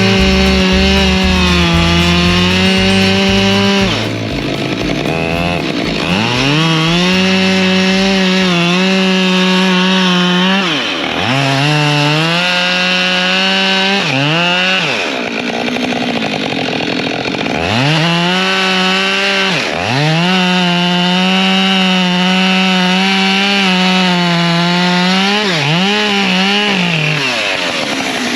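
Husqvarna 592 XP two-stroke chainsaw cutting firewood at high revs. Its pitch stays steady during each cut, then falls and climbs back about six times as the throttle eases between cuts and opens again.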